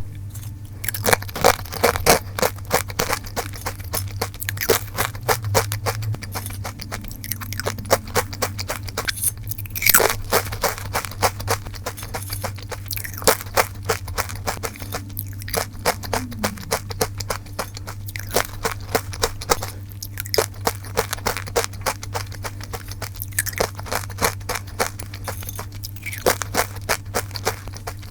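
Close-miked crunching and chewing of salted-butter sweet potato chips, a dense, irregular run of crisp crunches, over a steady low hum.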